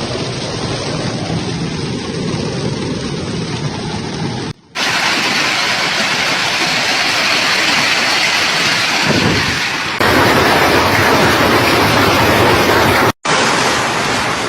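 Steady hiss of a heavy downpour in storm footage, loud throughout. It runs as a string of short clips, with abrupt cuts about four and a half seconds in and near the end, and a louder, brighter stretch from about ten seconds.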